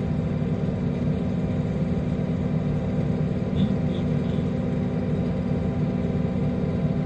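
Diesel engine of a forestry processor running steadily with a constant low drone, heard from inside the operator's cab.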